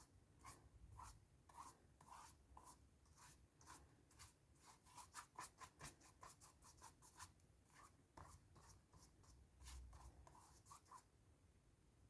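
Faint, short strokes of a drawing or painting tool scratching across watercolor paper, about three a second and thickest in the middle stretch.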